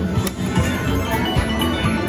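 Slot machine sounds: melodic bell-like electronic chimes and tones, one after another, over a steady low layer of casino din.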